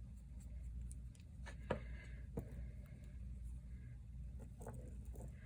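Low steady hum with a few light clicks and taps from small nail-art tools and bottles being handled.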